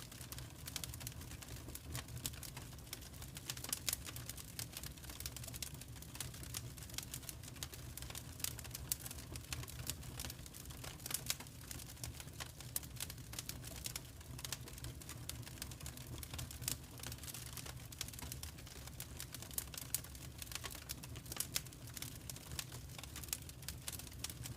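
Wood fire crackling, with dense irregular snaps and pops over a low steady rumble.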